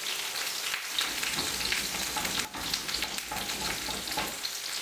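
Butter chicken sauce sizzling and crackling steadily in a hot pan.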